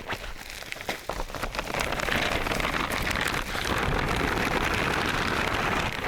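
Rain falling steadily in a hiss, growing louder about a second and a half in, with a few sharp drips or taps at the start.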